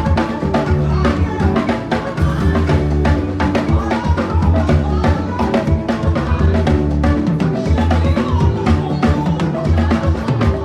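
Live music with a drummer playing fast, busy patterns on drums, sharp hits and rimshots over a steady low bass line and other pitched instruments.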